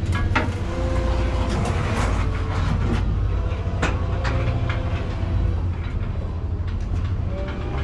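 Heavy diesel semi truck running under a steady low drone inside the cab, with scattered rattles and clunks over it.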